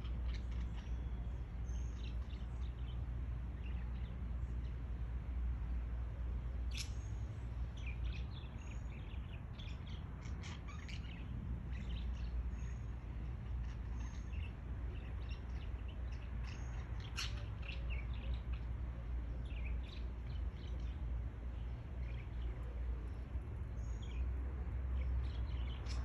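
Small birds chirping: scattered short, high chirps and tweets over a steady low background rumble.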